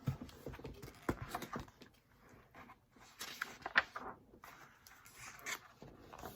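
Rustling and soft irregular knocks of a picture book being handled as a page is turned.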